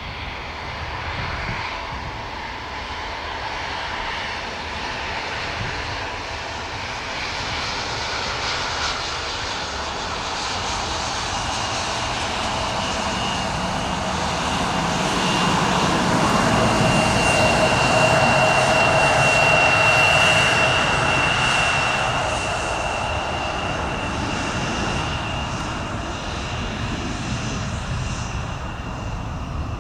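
Boeing 767-300 freighter's twin jet engines on landing approach, passing by: a broad jet noise that swells to its loudest about two-thirds of the way through and then fades, with a steady whine running through it.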